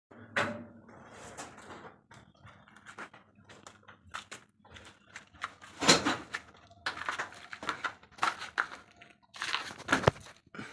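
Irregular knocks, clicks and scrapes of hand work on stainless steel pipe fittings. The sharpest knocks come about six and ten seconds in.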